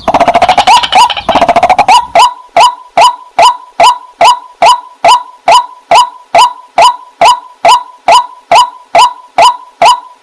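Waterhen calling: a fast, dense chatter for about the first two seconds, then short sharp notes repeated evenly, about two and a half a second, over a steady faint tone.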